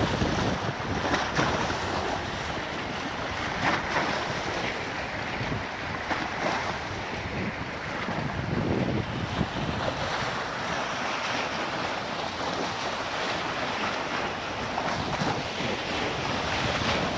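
Wind buffeting the microphone over the steady wash of waves on the shore.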